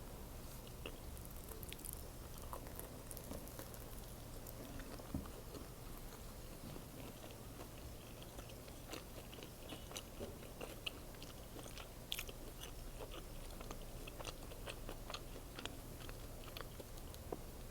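Close-miked chewing of an egg sandwich: soft bread and egg being chewed with many small wet clicks of the mouth, over a steady low hum.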